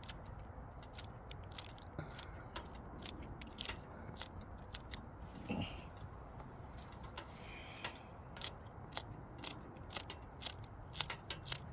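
Chili peppers being snipped with scissors: irregular, sharp, crisp snips, several a second, over a low steady rumble.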